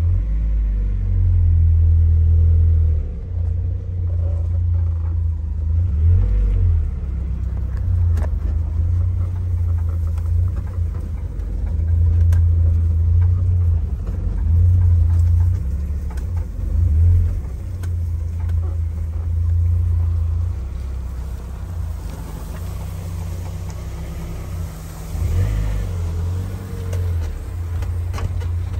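A 1992 Eunos being driven, its engine giving a strong low hum that swells and eases again and again as the throttle changes.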